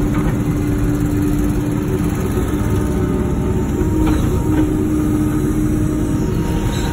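Wacker Neuson ET 145 excavator's diesel engine running steadily, with a continuous low rumble and a steady hum.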